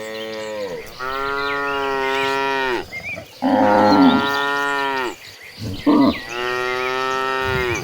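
Cattle mooing: three long moos one after another, each holding its pitch and falling off at the end.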